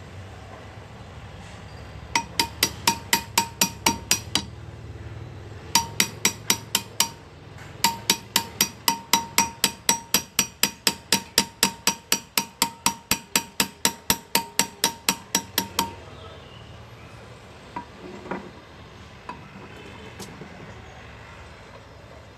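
Small hammer tapping a hand-engraving chisel into metal: quick, light metallic taps about five a second, each with a short ring. They come in three runs, a couple of seconds, then a brief one, then about eight seconds.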